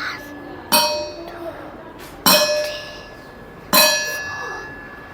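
A metal object struck three times, about a second and a half apart, each strike ringing on with a clear tone and fading away. The strikes are sounded one at a time for young children to count.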